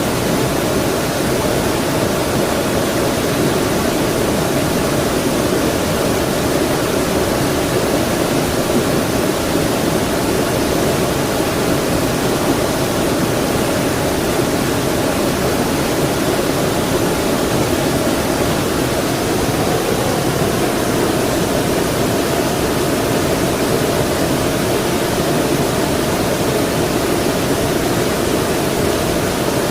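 Creek water flowing, a steady unbroken rushing with most of its weight low in pitch.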